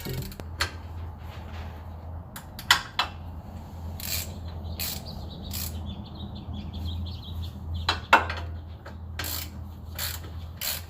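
Scattered metallic clinks and knocks of hand tools on a pickup's rear brake and axle parts during reassembly, with the loudest knocks a little under 3 seconds in and about 8 seconds in, over a steady low hum.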